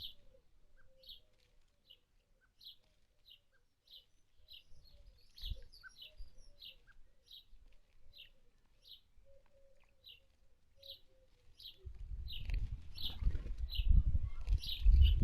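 A small bird chirping a single short high note over and over, about one and a half times a second. About twelve seconds in, a loud low rumbling noise starts and builds, drowning out the chirps.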